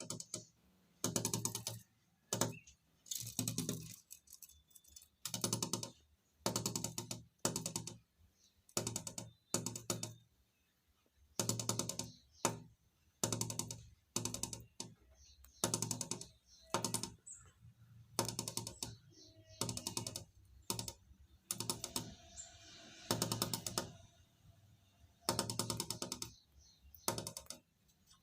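Small bird pecking at window glass: bursts of rapid tapping, each lasting under a second, coming about once a second.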